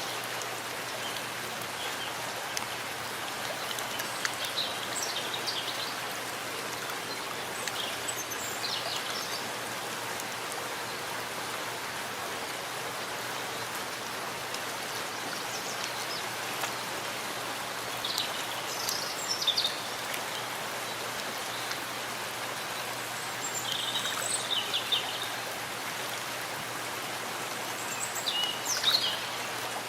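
Steady rain falling in a forest, an even hiss of drops. A bird calls in short high chirps several times over it.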